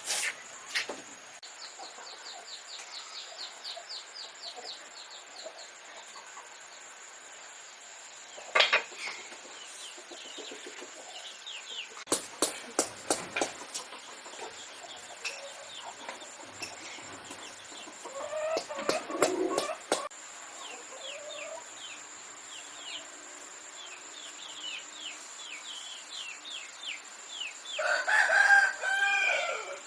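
A rooster crows loudly near the end. Before it come rapid runs of high chirps, several clusters of sharp taps or knocks, and a steady high-pitched tone underneath.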